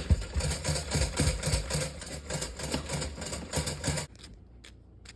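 Close-up crunchy chewing, a quick series of crunches a few times a second, that stops abruptly about four seconds in.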